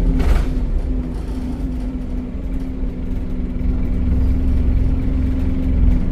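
Scania OmniCity bus's 9.3-litre DC9 diesel engine running with a steady low rumble and a held drone, with a short hiss just after the start.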